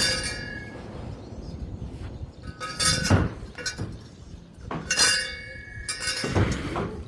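Metal clinking and ringing: several separate metal-on-metal strikes spaced a second or two apart, a few with a dull knock under the ring.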